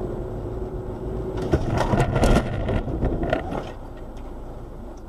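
Mini motorcycle engine running, a steady hum over a low rumble. The hum drops away about a second and a half in, and a louder, shifting stretch of sound follows before the level tapers off.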